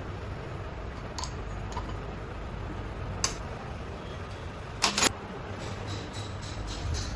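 A few sharp metallic clicks and clinks from tools or turbocharger parts being handled, the loudest two close together about five seconds in, over a steady low background noise.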